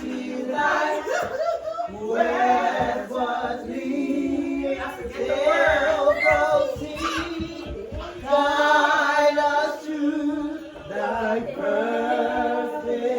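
Several voices singing together with long held, wavering notes.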